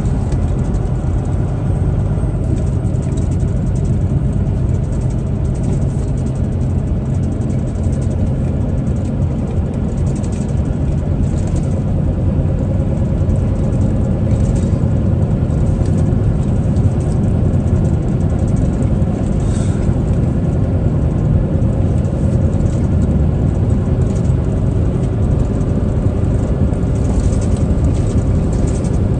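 Truck engine and road noise while driving: a steady low drone.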